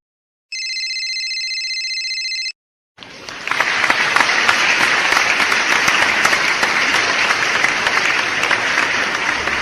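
A brief, steady, high electronic tone with a fast warble, lasting about two seconds, then, after a short gap, crowd applause that swells in quickly and keeps going, easing off slightly near the end.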